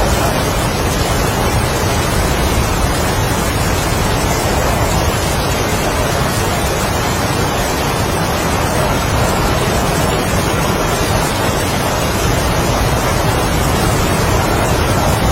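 Heavy rain with strong wind, a steady dense noise that never lets up.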